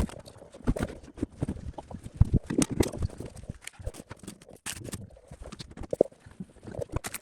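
Irregular clicks, taps and knocks of hand work on parts, with a few sharper knocks.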